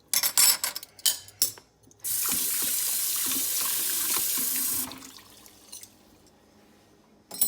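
Kitchen sink tap turned on full, its water running steadily for about three seconds to rinse spoons, then shut off. A few clinks of metal spoons come before the water starts.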